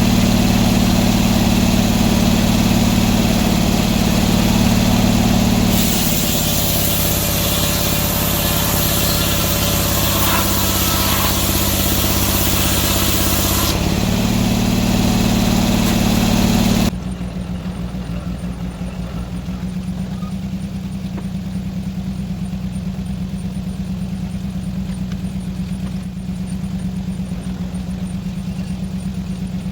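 Sawmill engine running steadily. For about eight seconds in the first half a loud hissing noise joins it and the engine note sags slightly, as when the blade is under load. About two-thirds of the way through, the engine drops to a quieter, steadier run.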